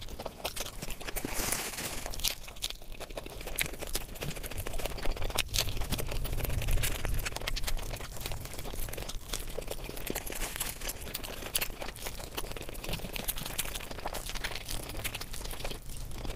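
ASMR eating: a person biting into and chewing a crispy-coated burger, a constant stream of crunches, crackles and wet mouth clicks.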